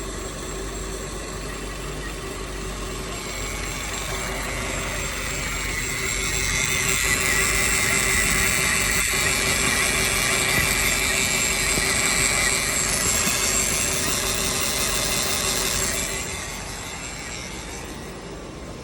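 Volkswagen Polo's engine running steadily, with a hiss and a high whine on top that swell from about four seconds in and fall back near the end.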